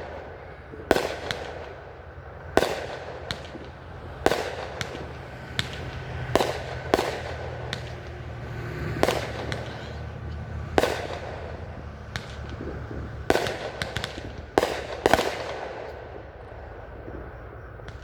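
Aerial fireworks display: shell bursts going off one after another, a sharp bang every second or two, each trailing off briefly, over a low background rumble.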